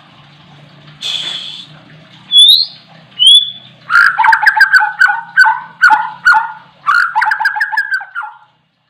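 A murai (white-rumped shama) singing in full voice: two loud rising whistles, then a fast run of harsh, clicking chattering notes for about four and a half seconds that stops abruptly.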